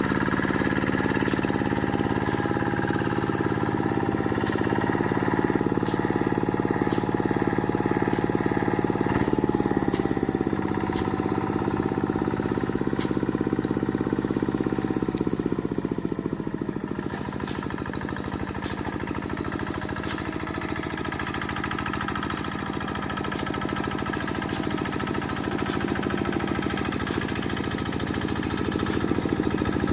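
Quick G1000 two-wheel hand tractor's single-cylinder diesel engine running under load while clearing brush. Its pitch sags and it gets a little quieter about halfway through, then picks back up, with scattered clicks over the engine.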